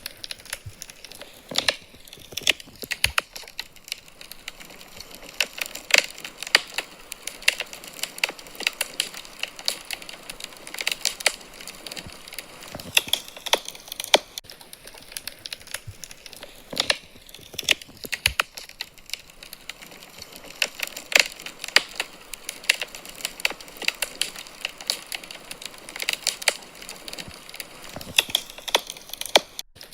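Wood fire burning in a fireplace, crackling with irregular sharp pops over a soft hiss.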